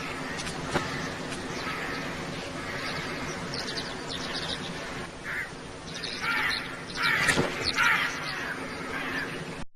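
Birds calling over a steady outdoor background, with a run of louder, harsh calls from about six to eight seconds in; the sound cuts off suddenly near the end.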